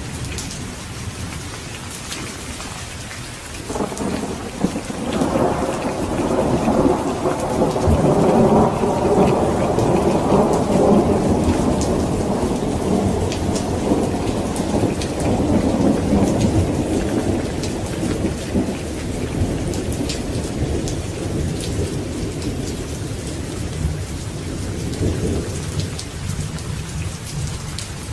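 Steady heavy rain with drops pattering, and a long roll of thunder that swells about four seconds in and slowly rumbles away over some twenty seconds.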